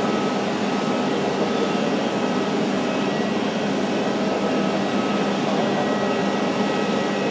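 Jet airliner engines running steadily: a constant rush with a faint high whine that does not rise or fall.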